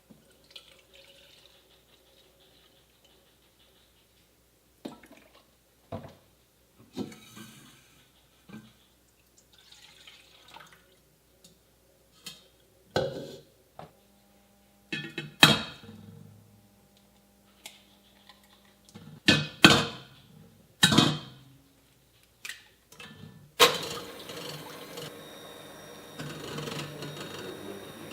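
Kitchen work: scattered knocks and clinks of dishes, pots and utensils being handled, then a steady rushing noise starting near the end.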